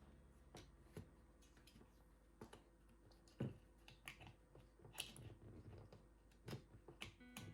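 Light, irregular clicks and taps of small plastic and metal parts being handled as a mini electric chainsaw's bar and chain are fitted back together. The sharpest taps come about three and a half and five seconds in.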